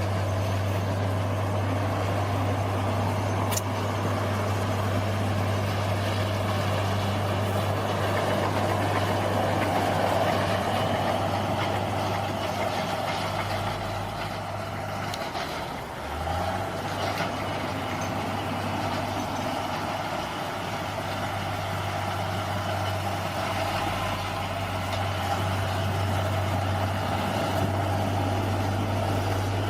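Bulldozer's diesel engine running steadily. Its note dips briefly about halfway through, then picks back up.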